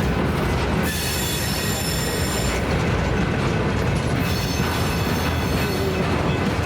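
A BNSF train rolling past with a steady rumble of wheels on rail, its wheels squealing in a high pitch twice, about a second in and again past four seconds.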